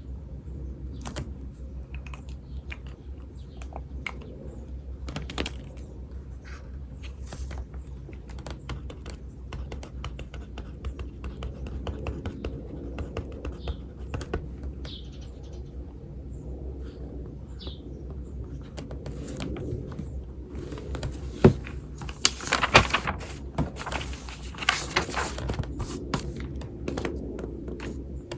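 Pen or pencil writing on paper: a steady run of short scratching strokes and light taps, with a few brief bird chirps. About three-quarters of the way through, the strokes grow denser and louder, with a couple of sharp knocks on the desk.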